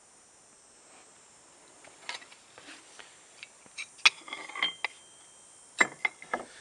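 Metal tools being handled and set down: scattered light clinks and knocks, the sharpest about four seconds in with a brief ring after it, and a few more knocks near the end.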